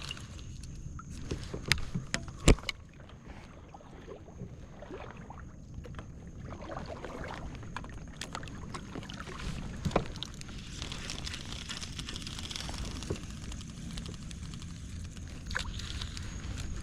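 Fishing kayak on the water: a steady low rumble with scattered knocks and clicks on the hull, the loudest about two and a half seconds in, under a faint steady high-pitched tone.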